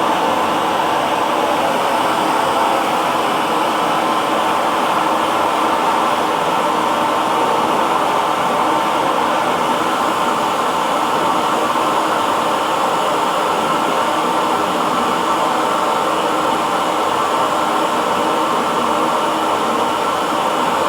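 Electric hair dryer running steadily: a constant rush of blown air with a faint steady motor hum, unchanging throughout.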